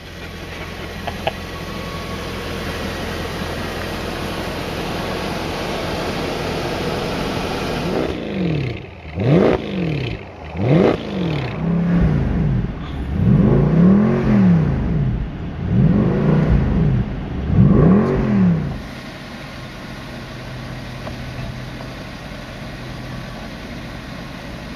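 Mercedes SL63 AMG's 6.3 V8 running steadily, then revved in park six or so times in quick succession, each rev climbing and falling in pitch, before settling back to a steady idle a little before the end.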